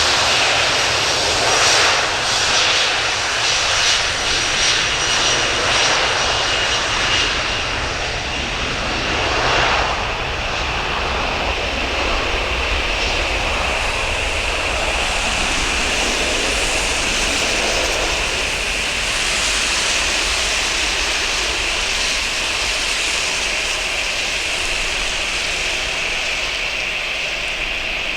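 Jet airliner's engines running at takeoff power through heavy rain, a dense steady rush with a high whine joining about halfway through.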